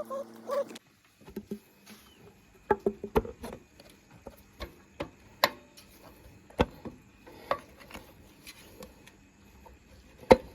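Scattered clinks and knocks of hand tools and metal parts being handled during motorcycle engine repair, coming at uneven intervals.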